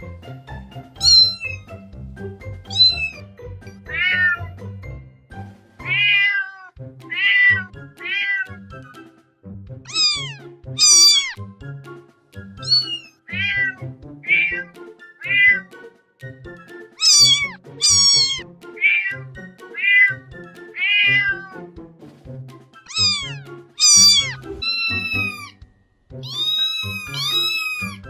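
Kittens meowing again and again, high-pitched calls that each fall in pitch, about one every second or so, with a longer meow that rises and falls near the end. Background music plays underneath.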